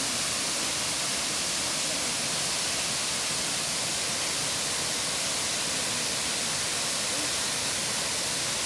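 Waterfall: a steady, unbroken rush of falling water, heavy in hiss.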